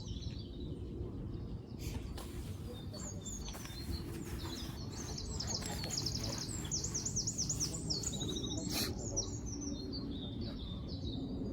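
Small songbirds singing: quick runs of high chirps, repeated several times, over a steady low rumble.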